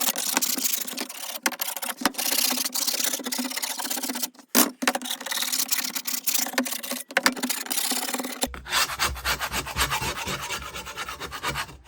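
Putty knife scraping caked-on buildup off a steel mower blade: a quick run of rasping strokes, pausing briefly twice.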